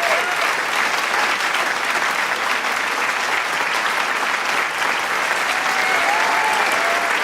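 A large crowd applauding: steady, dense clapping with scattered cheering voices, a few at the start and more again near the end.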